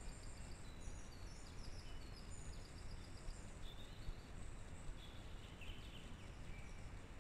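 Faint songbirds singing: short, high, trilled phrases that come thickly in the first few seconds and more sparsely later, over a steady hiss of woodland ambience.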